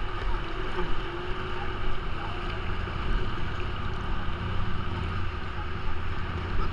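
River water rushing over the slalom course, a steady noise, with wind buffeting the microphone as a low, uneven rumble.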